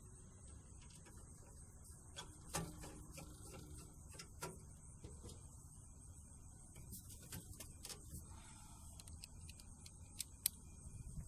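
Faint scattered clicks and knocks of hands and tools working on a furnace during a repair, with two sharper clicks near the end, over a low steady background hum and a faint high hiss.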